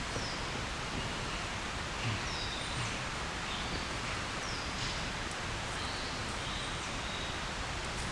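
Steady rain falling in a forest, with a bird calling several times in short, high, falling notes.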